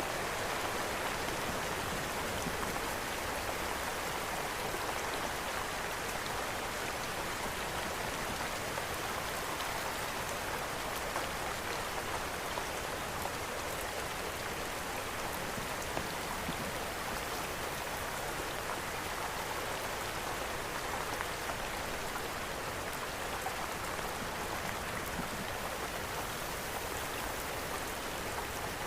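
Steady rain falling on a surface, mixed with a wood fire, whose faint crackles stand out a few times.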